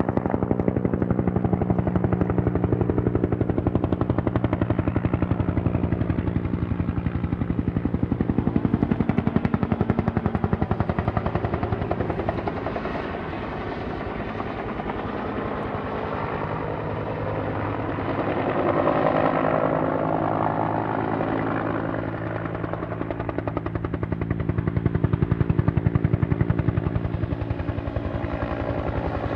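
Helicopter flying over with a steady rotor beat and turbine drone, growing louder and fading several times as it passes, loudest about two-thirds of the way through.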